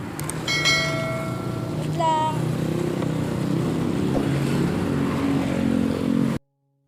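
Road traffic: a motor vehicle's engine running and shifting pitch, with a few brief high tones in the first two seconds. It cuts off abruptly near the end.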